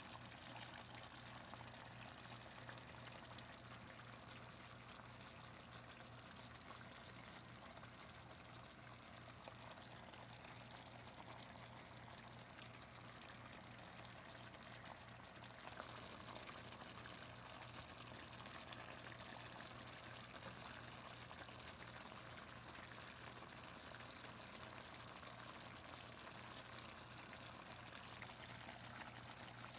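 Faint, steady sizzling and bubbling of chicken thighs simmering in gravy in a pan, a little louder about halfway through, over a low steady hum.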